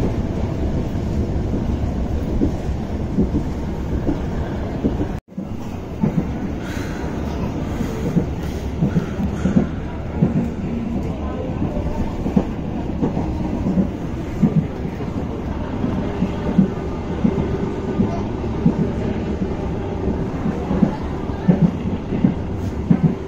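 A moving passenger train heard from inside the coach: a steady low running rumble of wheels on rail, with irregular knocks and clatter from the running gear. The sound drops out for an instant about five seconds in, and a faint steady hum joins in the last few seconds.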